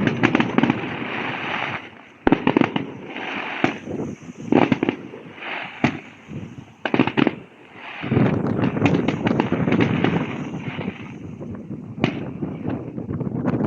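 Fireworks going off: a rapid series of bangs and booms at irregular intervals, turning into a dense, almost continuous barrage about eight seconds in.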